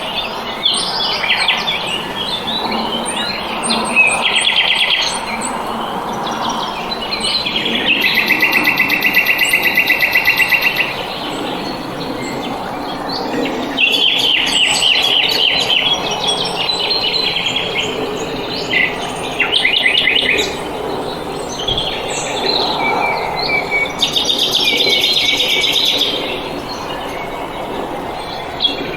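Several small songbirds singing: chirps and short phrases, with loud rapid trills about a third of the way in and again near the end, over a steady background hiss.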